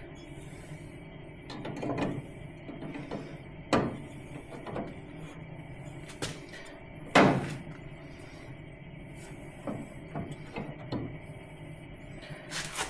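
Steel gearbox mounting bracket being offered up and shifted into place against the car's chassis metal: irregular knocks and clanks, the loudest about seven seconds in.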